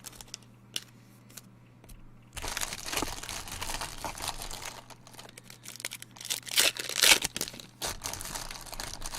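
Trading card pack wrappers crinkling and tearing as they are handled and opened. Quiet with a few light clicks at first; the crinkling starts about two seconds in and is loudest near the seven-second mark.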